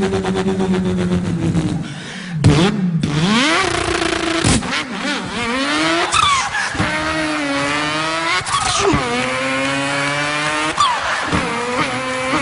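A man imitating a car engine with his voice. Held engine notes are broken by quick rising and falling sweeps like revving and gear changes.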